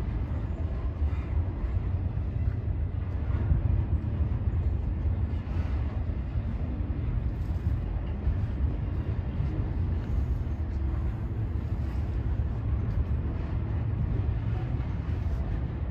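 Double-stack intermodal freight train rolling slowly across a steel girder bridge: a steady low rumble of wheels and cars passing over it.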